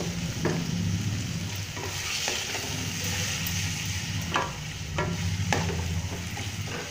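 Spiced onion-tomato masala sizzling in oil in a steel kadai while it is stirred and fried down with a wooden spatula. The spatula scrapes and taps against the pan several times, over a steady low hum.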